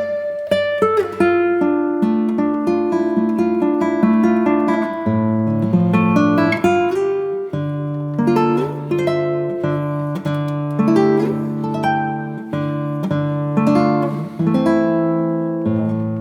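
Background music: plucked acoustic guitar notes picked in a steady flowing pattern over held bass notes.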